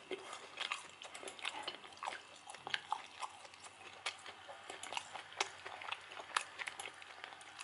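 A person chewing food close to the microphone: irregular soft wet clicks and smacks of the mouth, several a second.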